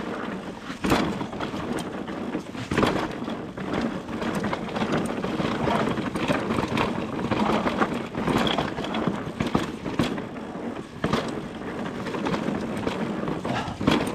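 Nukeproof Mega 275 mountain bike riding a dirt trail: steady tyre and rattle noise over rough ground, with sharp knocks from hitting bumps, about a second in, near three seconds, and again around eleven and fourteen seconds.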